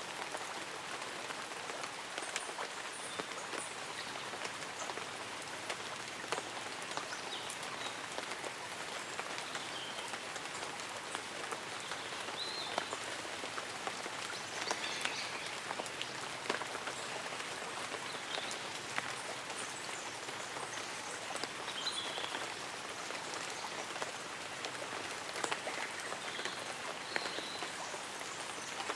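Light rain pattering steadily on leaves and an umbrella, with many single drops ticking. Faint high chirps of birds come here and there.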